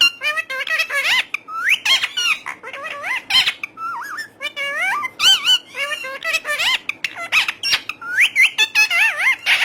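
A pet parrot chattering: a rapid string of high, whistled squeaks that slide up and down in pitch, with short breaks between runs.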